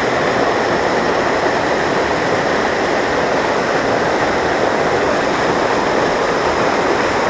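Steady rush of a waterfall on a mountain creek, an even hiss of falling water that does not change.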